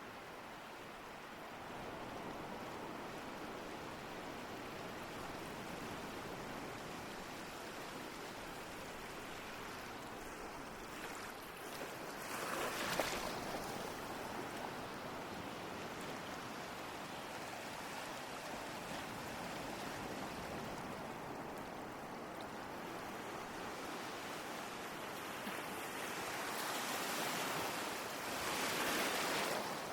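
Ocean surf: a steady wash of waves, with two waves breaking more loudly, about halfway through and again near the end.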